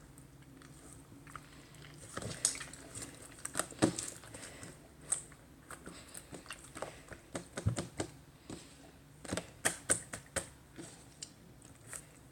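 Clear slime being squeezed and pressed by hand, giving a string of irregular small clicking pops and squishes.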